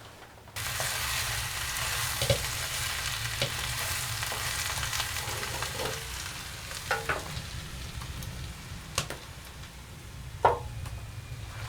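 Food frying in a hot pan: a sizzle that starts suddenly about half a second in and runs on steadily, with a few sharp clicks and taps through it.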